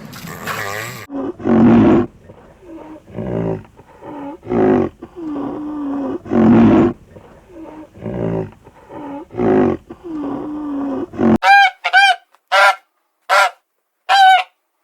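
A series of low, drawn-out farm animal calls, then, after a sudden cut about eleven seconds in, a goose honking five times in quick succession.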